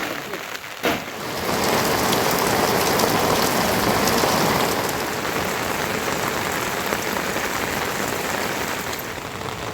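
Heavy monsoon rain falling, a dense even hiss of drops on surfaces. There is one sharp knock about a second in, then the rain is louder for a few seconds before settling to a steady fall.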